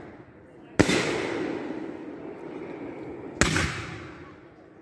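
Two loud firework bangs about two and a half seconds apart, each followed by an echoing rumble that fades away.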